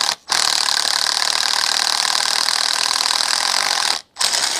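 Power drill with a step (Christmas tree) bit cutting metal, enlarging a hole in a bracket: a brief burst, then one steady run of nearly four seconds, then another short burst near the end.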